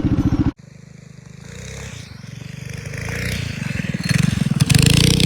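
Minibike engine running loud, cut off abruptly about half a second in, then a minibike engine heard farther off and growing steadily louder as it comes closer, with a rush of hiss added near the end.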